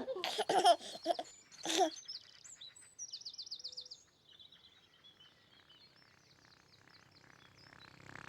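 A few short voice-like sounds in the first two seconds, then faint birdsong: high chirps and a rapid trill about three seconds in, thinning out toward the end.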